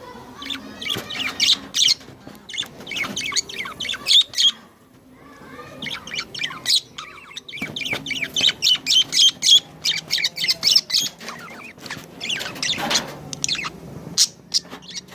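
Small birds chirping, many short high chirps in quick runs, thickest in a dense stretch in the middle.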